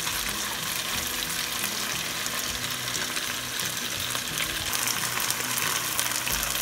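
Chicken pieces with onion and garlic sizzling steadily in hot oil in a nonstick frying pan.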